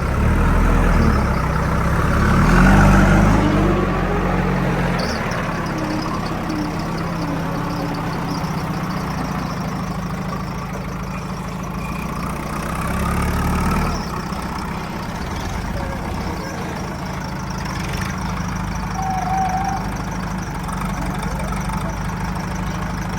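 Heavy diesel engine running steadily, revved up twice: about one to three seconds in, and again around thirteen seconds.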